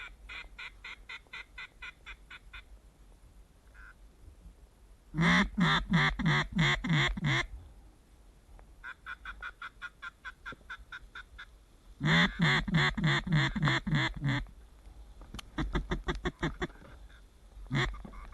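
Rapid runs of duck quacks, about five a second, in several bursts. Two loud, close runs come about five and twelve seconds in, with fainter runs between them.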